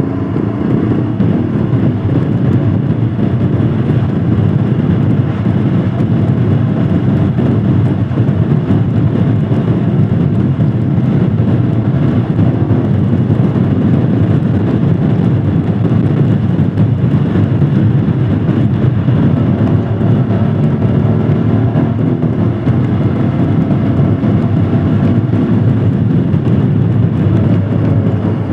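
Royal Enfield Himalayan Scram 411's single-cylinder engine running steadily under way, with road and wind noise, the motorcycle holding an even pace.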